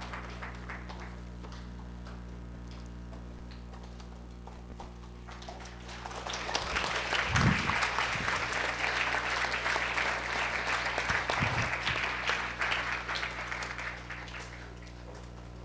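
Audience applauding. The clapping dies away over the first couple of seconds, then a second, louder round starts about six seconds in and fades out near the end.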